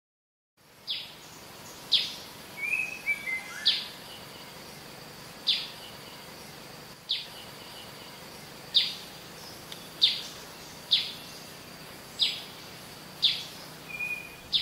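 Birds calling: one bird repeats a short, sharp falling note about once a second, eleven or so times, with a few softer chirps from another bird around three seconds in and near the end, over a faint outdoor background. It fades up from silence about half a second in.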